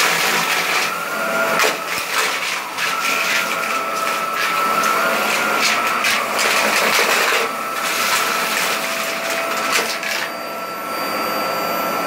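Bagless vacuum cleaner running on a shag carpet, its motor a steady whine, with frequent clicks and crackles from the debris it is sucking up.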